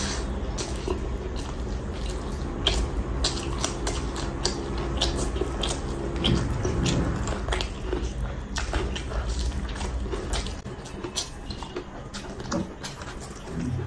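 Close-miked chewing of a mouthful of chicken biryani, with many quick wet clicks and lip smacks, and the squish of rice being gathered up by the fingers.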